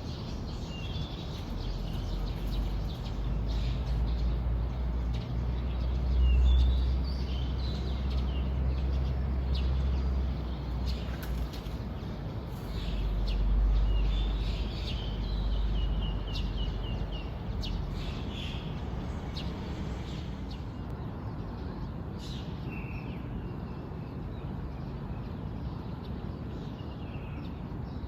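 Small birds chirping and trilling in a morning chorus, short calls scattered throughout. A low rumble swells twice in the first two-thirds, loudest of all, then dies away.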